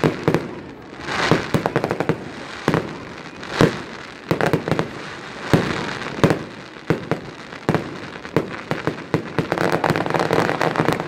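Fireworks display: a series of sharp bangs from bursting shells, one every second or so, with crackling between them, turning into a dense run of crackle near the end.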